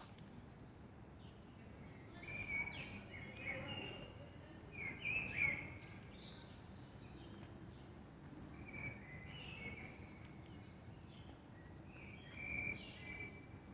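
Small birds chirping in four short bouts of high chirps and quick glides, over a steady low background noise.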